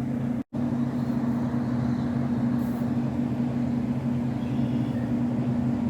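Steady low mechanical hum, a motor or engine running with a few low steady tones over a rushing haze. It cuts out briefly about half a second in.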